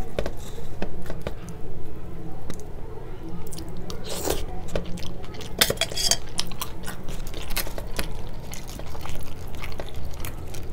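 Close-miked chewing and biting of crisp fried puri, with many small crackles and the loudest crunches a little after four seconds and around six seconds. Near the end come light knocks of fingers against a curry bowl.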